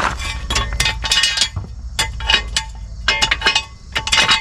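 Light metallic clinks and clanks of hand tools and metal parts being handled, a dozen or so in quick irregular succession, some with a brief ring.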